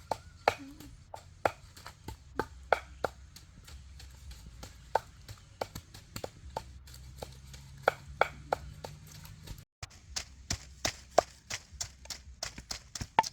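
Knife chopping on a cutting board in irregular strokes, coming quicker in the last few seconds.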